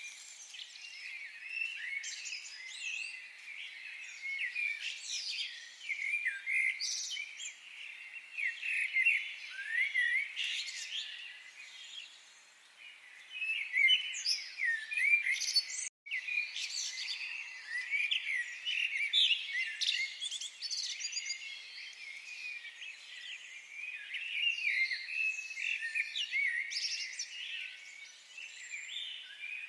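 Several forest birds singing and calling together in a dense, continuous chorus of short chirps and whistled glides, with a momentary dropout about halfway through.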